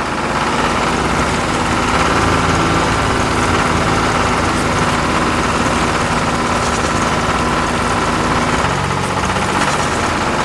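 Tractor engine running steadily as it pulls a plow through the soil.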